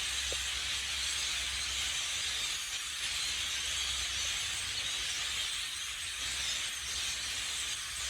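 A large flock of blackbirds calling all at once, a dense, steady chatter in which no single call stands out.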